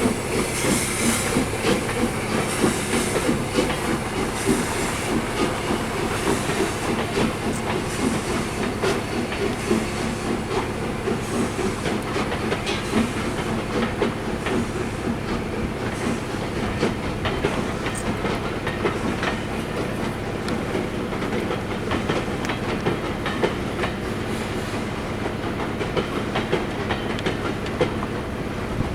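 Steam-hauled train running by: the locomotive's hissing, puffing exhaust fades over the first few seconds, leaving the steady rumble and clickety-clack of the carriages' wheels over the rail joints.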